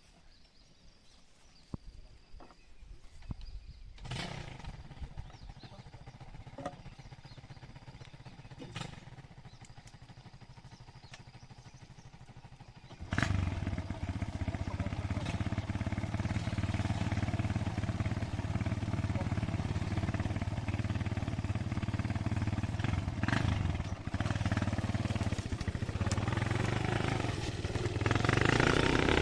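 Motorcycle engine running, faint at first with a few sharp knocks. About 13 seconds in it suddenly becomes much louder and keeps running steadily.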